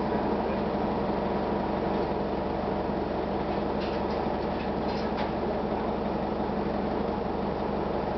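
1999 Gillig Phantom transit bus with its Detroit Diesel Series 50 diesel engine running, a steady drone and hum, with a few faint ticks about four to five seconds in.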